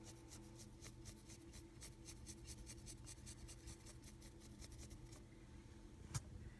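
Faint, rapid scratching of a dry paintbrush's bristles stroking over a cast hydrocal plaster wall. The strokes stop about five seconds in, and one sharp click follows near the end.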